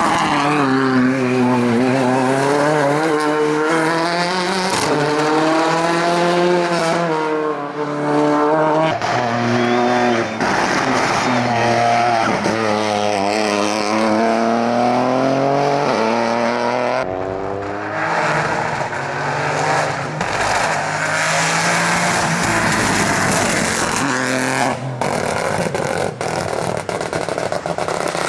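Rally cars at full stage pace, their engines revving hard, rising and dropping in pitch again and again with gear changes and lifts for corners. Tyre squeal comes in at times.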